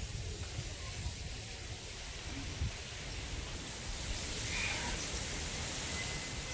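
Steady outdoor noise with wind rumbling on the microphone, a high hiss that grows louder about halfway through, and a couple of faint short chirps near the end.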